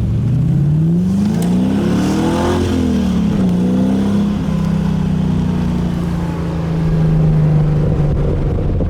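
TVR 350i's 3.5-litre Rover V8 under acceleration. The engine note rises for about two and a half seconds, drops at a gear change, then holds steady while cruising.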